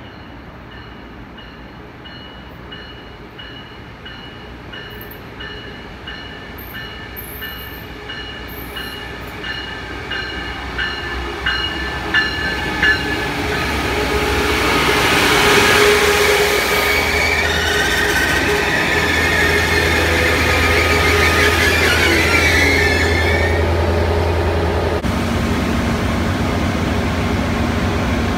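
Siemens SC-44 Charger diesel locomotive and its train approaching and passing close by. The sound grows steadily louder over the first half with regular clicks, then a loud pass with a deep engine drone and high wheel squeal. About three seconds before the end it changes suddenly to a steadier, lower locomotive hum.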